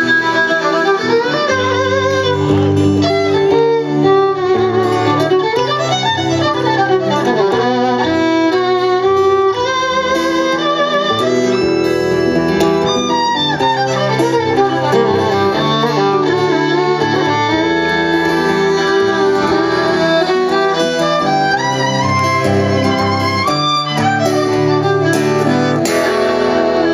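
Live band playing an instrumental passage of a song: a violin carries a wavering melody over acoustic guitar and bass.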